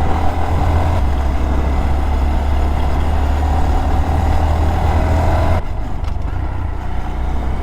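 Small motorcycle engine running at a steady cruise under wind and road noise. About five and a half seconds in, the engine note drops as the throttle eases off.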